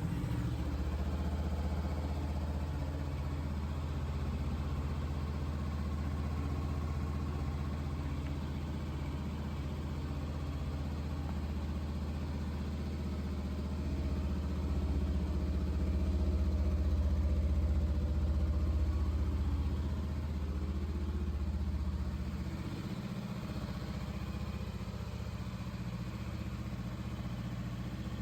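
Honda CB500F's parallel-twin engine idling steadily just after starting up. The idle rises a little past the middle and drops back about 22 seconds in.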